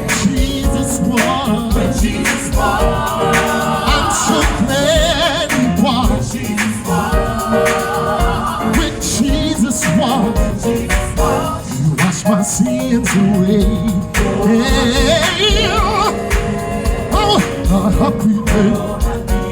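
Gospel choir singing with a live band, a strong beat and layered voices.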